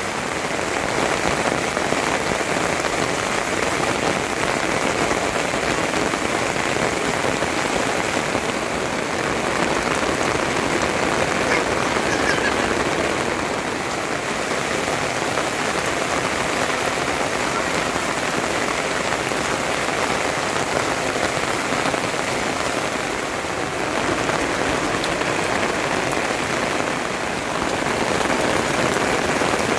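Heavy rain falling steadily, an even hiss of downpour without letting up.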